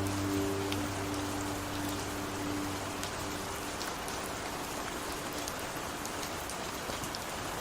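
Steady rain falling, with faint scattered drop ticks. The last held chord of a slowed-down song fades out under it over the first few seconds.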